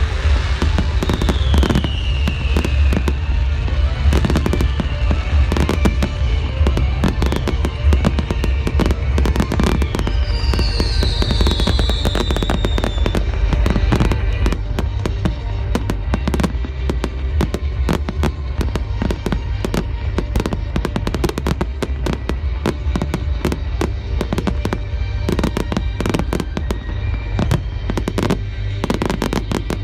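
Fireworks display: rapid crackling and banging bursts throughout, with a string of short falling whistles in the first half and a longer one around the middle, over a steady deep rumble.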